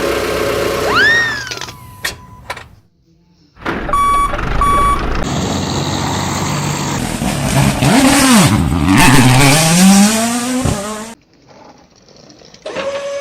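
A run of vehicle sound effects: a whistle that slides up and down, two short beeps, then an engine revving up in pitch before cutting off.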